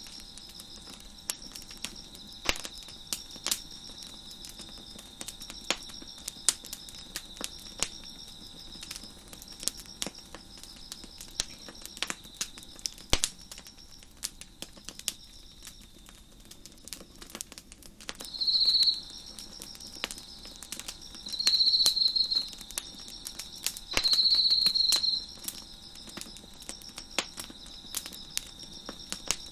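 A fire crackling with sharp, irregular pops over a steady chorus of chirping crickets. A nearer cricket chirps loudly three times in the second half, each run lasting about a second.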